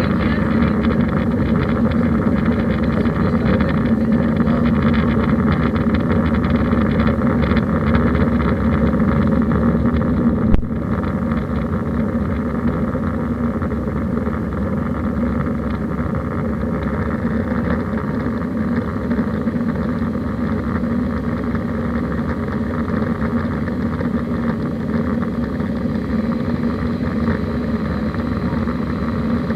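Airbus A320 engine and airflow noise heard from inside the passenger cabin, a steady low hum. About ten seconds in there is a short click, after which the noise is a little quieter.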